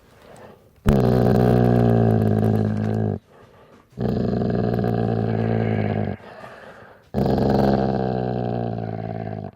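A dog growling: three long, low growls of about two seconds each, with short pauses between them.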